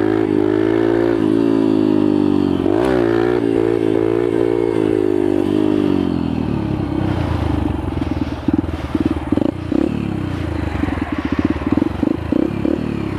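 Yamaha TTR125 pit bike's small single-cylinder four-stroke engine running under way. The revs dip briefly twice in the first three seconds, then hold high and ease off. From about six seconds in the sound turns choppy and uneven as the revs fall.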